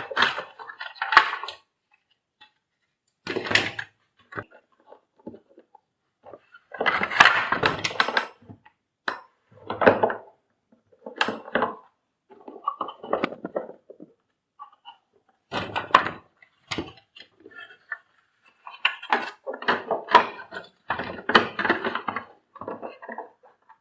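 Irregular clatter and clicks of hard vacuum cleaner parts being handled and fitted during repair, in short bursts with pauses between them.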